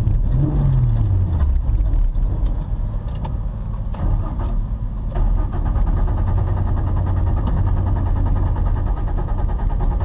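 Car engine whose note drops in pitch from about half a second in as the revs fall, then runs at steady revs.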